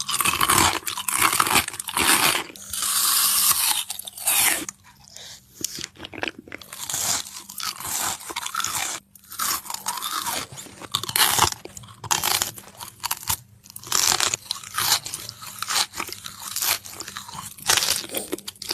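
Close-up crunching and chewing as a person bites into and eats crunchy food, in irregular loud bursts with brief pauses between bites.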